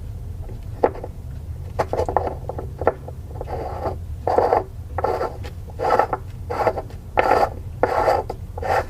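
Through-hull fitting being hand-tightened into its hole, with rubbing and scraping as the threads and sealant-coated flange turn. A few clicks come first, then a regular stroke about every two-thirds of a second. A steady low hum runs underneath.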